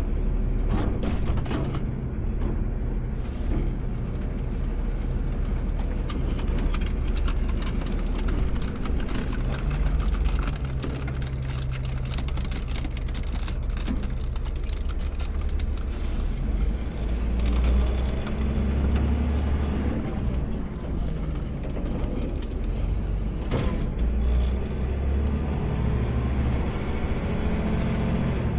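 Automated side-loader garbage truck heard from the driver's seat: the engine runs steadily and its low note swells up and down a few times, with scattered clicks and knocks on top.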